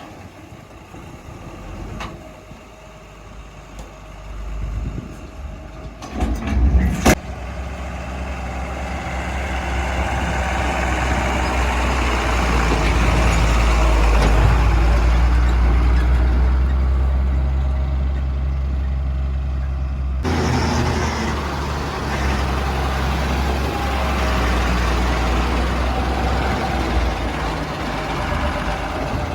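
Heavy diesel engine of a backhoe loader and tipper truck working under load, rising to a loud, low rumble. A few sharp clanks come about six to seven seconds in, and the sound changes abruptly about twenty seconds in.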